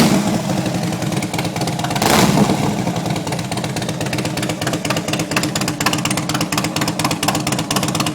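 Harley-Davidson Electra Glide Ultra Classic's V-twin engine running through Vance & Hines slip-on fishtail mufflers: it idles with a steady pulsing beat, with one short throttle blip about two seconds in.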